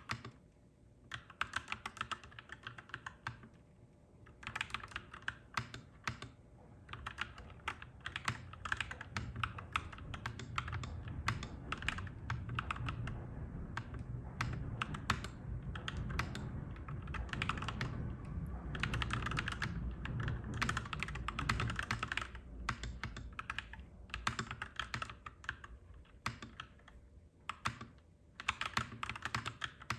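Typing on a clacky mechanical keyboard, fast runs of key clicks broken by short pauses. Under it a low rumble swells from about a quarter of the way in and fades out after about two-thirds.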